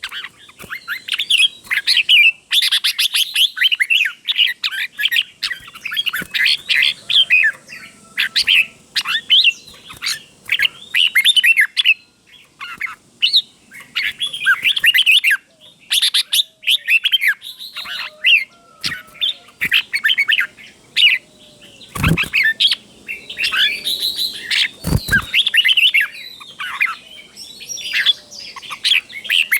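Red-whiskered bulbul singing: rapid, bright warbled phrases with short pauses, sung as a tutor song for young caged bulbuls. Two sharp knocks come about three seconds apart, late in the stretch.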